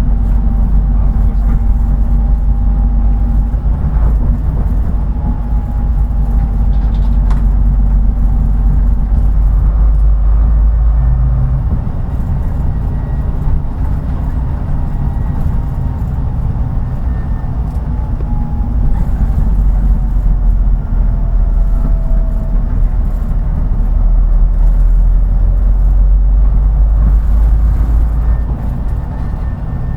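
Route bus under way: the diesel engine drones steadily and low, easing off about twelve seconds in and pulling harder again from about twenty seconds, with a faint whine that slides up and down in pitch.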